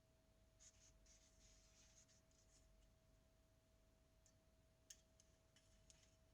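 Near silence: faint scratching and rustling, with a single sharp click about five seconds in, over a faint steady hum.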